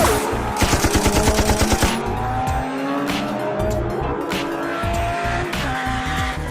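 Background music with a rapid burst of machine-gun-like gunfire sound effects, about ten shots a second, starting about half a second in and lasting roughly a second and a half.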